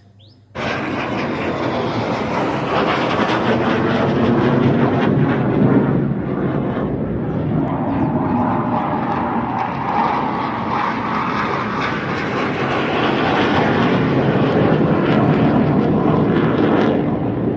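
Aeroplane flying overhead: a loud, steady rush of engine noise that starts suddenly about half a second in and cuts off shortly before the end.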